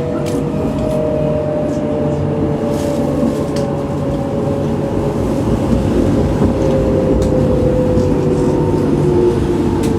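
Munich tram running on its rails: a steady low rumble from the wheels, with an electric motor whine in several tones slowly falling in pitch, and a few sharp clicks.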